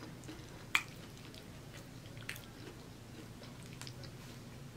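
Close-up chewing of a mouthful of food, faint and soft, with a few short clicks, the loudest a little under a second in.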